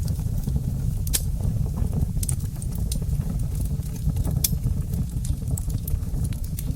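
Wood fire burning in a fireplace: a steady low rumble of flame with scattered sharp crackles and pops, the loudest snaps about one, two and four seconds in.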